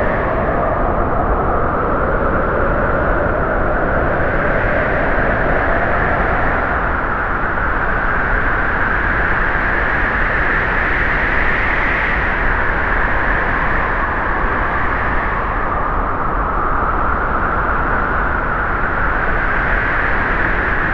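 Small motor of a model tractor running steadily, its pitch slowly falling and rising as the load changes.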